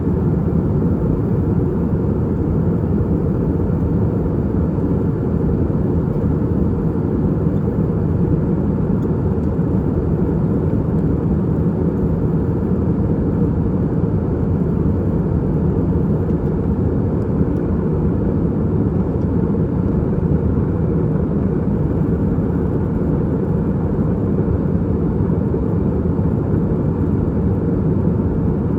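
Steady low roar inside the cabin of an Airbus A320-232 in flight: engine noise and rushing airflow from its IAE V2500 turbofans, even and unbroken throughout.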